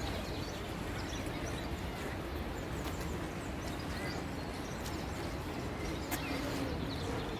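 Outdoor ambience: a steady background of noise with scattered short bird chirps, and a single sharp click about six seconds in.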